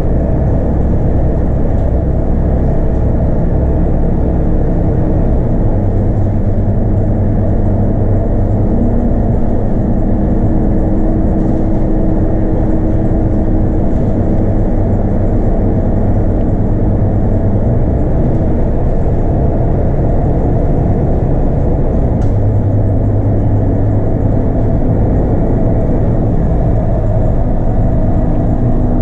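Scania DC9 five-cylinder diesel engine of a Scania K230UB bus running under way, heard from on board together with steady road noise. The engine note shifts in pitch a few times as the bus drives.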